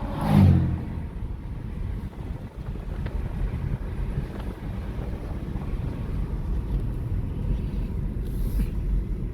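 Car driving along a road, heard from inside the cabin: a steady low road and engine rumble. Near the start there is a short, loud vocal sound from the driver, like a grunt or a hum.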